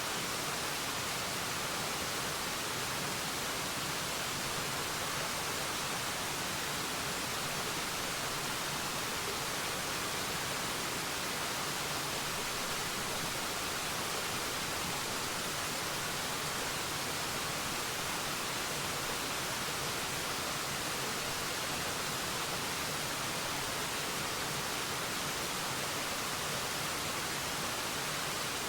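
Waterfall: a steady, even rush of falling water, holding the same level throughout.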